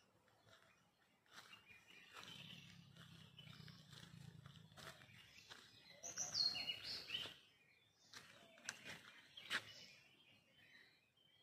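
Quiet outdoor ambience with birds calling: a few short, high, falling chirps about six to seven seconds in, over scattered light clicks and rustles and a faint low hum for a few seconds in the middle.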